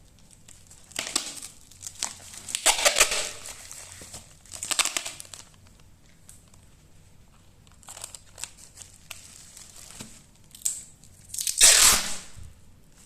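Packing material crinkling and tearing in several short, separate bursts, the loudest near the end: the handling of plastic wrap or packing tape while a parcel is packed.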